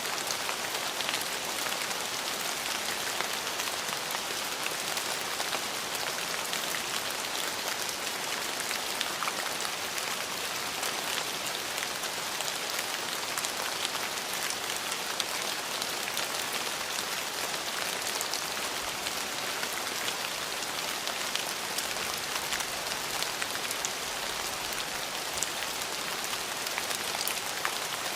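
Steady rainfall: an even hiss of rain on hard surfaces, with many small drop patters throughout.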